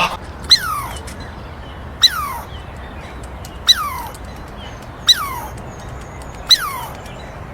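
An animal calling five times, about every one and a half seconds. Each call is a short, sharp cry that slides down in pitch.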